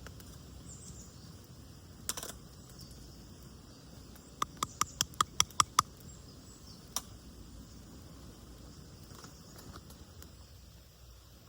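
A quick run of about eight sharp, ringing clicks, some five a second, with a single click before and after it, over a faint steady outdoor background.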